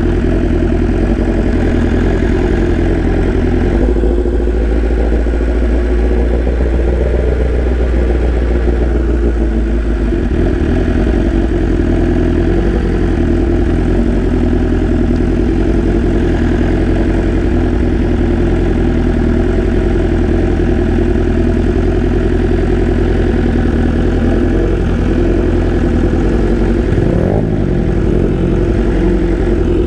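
BMW S1000RR sport bike's inline-four engine running at low revs, steady, with small shifts in pitch and a brief rise in revs near the end.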